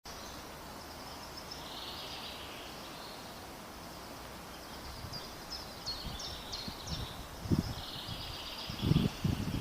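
Birds calling outdoors: thin high chirps and a buzzy trill, then from about halfway a series of quick down-slurred notes repeated roughly twice a second. Low irregular thumps come in near the end.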